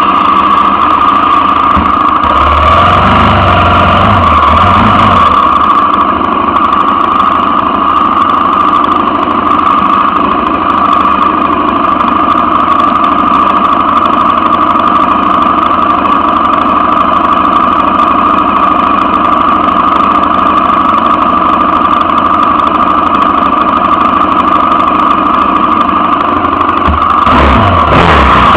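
Husaberg supermoto motorcycle engine running steadily at idle, close to the microphone, with a brief change in engine note near the end.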